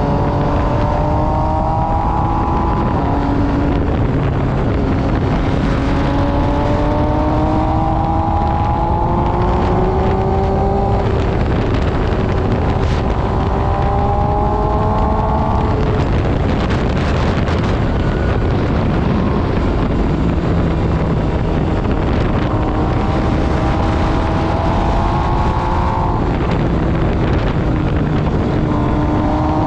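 2022 MV Agusta Brutale 800RR's three-cylinder engine with an SC-Project exhaust, pulling hard under load. Its pitch climbs, drops at each gear change and climbs again, several times over.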